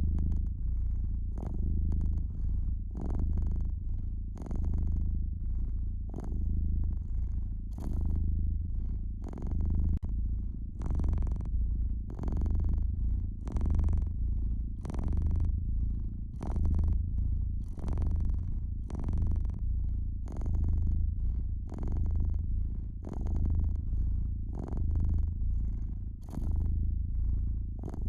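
Domestic cat purring steadily, swelling and easing with each breath about every second and a half, over a wood fire crackling with frequent short sharp pops.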